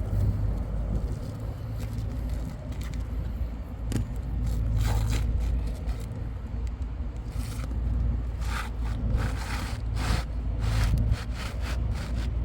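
Asphalt roofing shingles scraping and rustling as they are handled and stepped on, in short scattered bursts over a steady low rumble.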